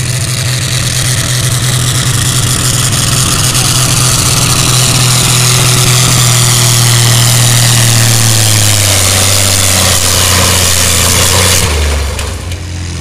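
Altered stock pulling tractor's engine running flat out, loud and steady, its pitch sagging about two-thirds of the way through as it labours under the sled. Near the end the throttle is cut and the engine drops off sharply.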